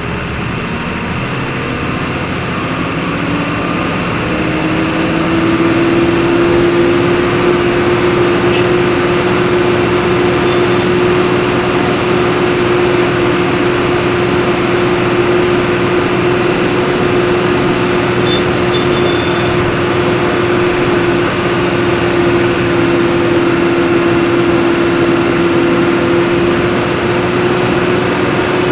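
Diesel engine of a Volkswagen 17.230 EOD city bus heard from inside the bus. Its note climbs over the first few seconds as the bus accelerates, then holds at a steady pitch while it cruises.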